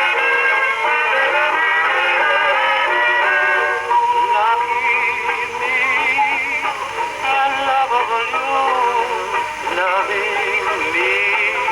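An old 78 rpm record of a dance-band song playing acoustically through a Victor type III phonograph's exhibition reproducer and horn, with a singer coming in about four seconds in. The record has a little wear on it.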